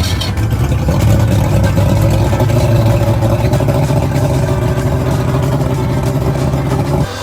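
Boat's outboard motor running steadily at a constant speed, cutting off suddenly near the end.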